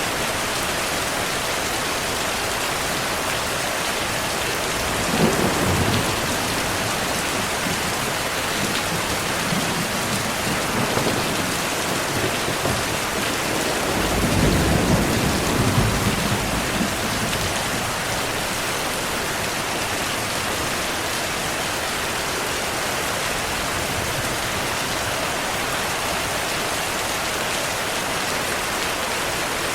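Heavy steady rainfall with thunder: a short rumble about five seconds in, and a longer, louder rolling rumble around the middle.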